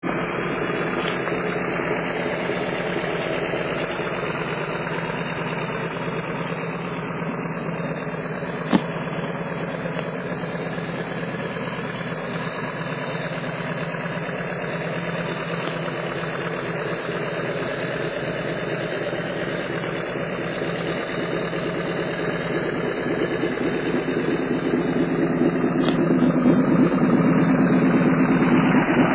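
Custom motorcycle's 1200cc Harley-Davidson V-twin engine, fitted with a Mikuni carburettor, idling steadily with no revs. There is a single sharp click about nine seconds in, and the engine grows louder over the last few seconds as the twin exhausts come close.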